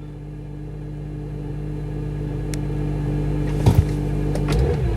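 Audi Q7's 3.0L V6 TDI common-rail diesel idling steadily seconds after a cold start at −23 °C with no block heater, getting gradually louder. A couple of short knocks near the end.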